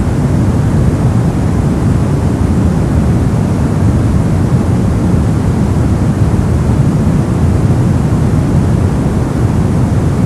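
Brown noise: a steady, even rumbling hiss with most of its energy in the low end, unchanging throughout.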